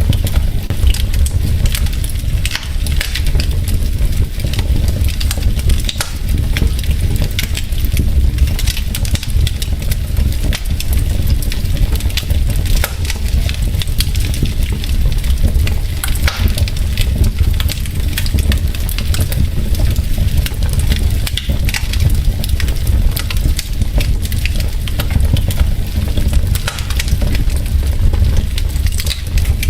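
Wood fire in a fireplace, logs crackling with frequent sharp pops and snaps over a steady low rumble.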